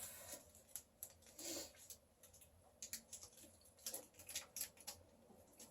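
Faint, scattered clicks and ticks of a person chewing a Coffee Crisp chocolate wafer bar.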